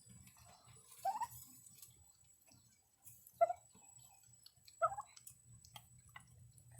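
Turkeys pecking at food, with scattered small clicks and three short calls about one, three and a half and five seconds in.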